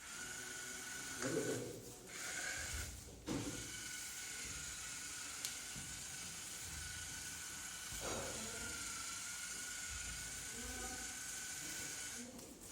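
Fire Bird V robot's geared DC drive motors whining steadily as it drives, cutting out briefly about a second in, about three seconds in and again near the end.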